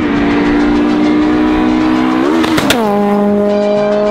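Car engine held at high, steady revs, with a brief rise and dip in pitch about two and a half seconds in before it holds a steady note again.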